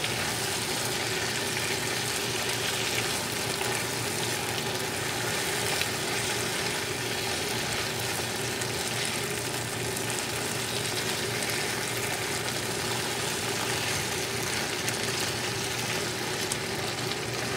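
Pork, potatoes and onions sizzling steadily in a frying pan, the lemon and soy sauce marinade just poured in, while a wooden spatula stirs them.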